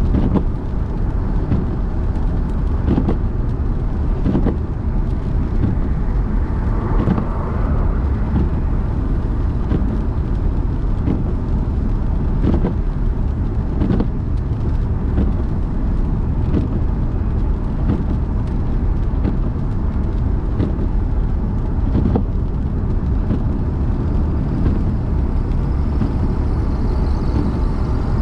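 A car driving on a wet city road, heard from inside: a steady low rumble of tyres and engine, with a short knock every second or two.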